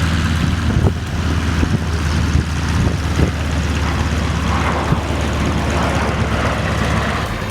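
Propeller aircraft engine running with a steady drone as the aircraft flies its display.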